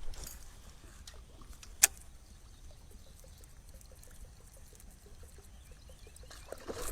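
Lake water trickling and splashing faintly around a kayak, with a single sharp click a little under two seconds in.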